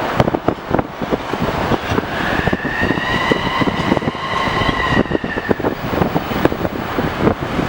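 Jet airliner engines, a high whine in several tones that swells and fades over a few seconds as the aircraft passes. Throughout there is a rumbling roar with wind buffeting the microphone.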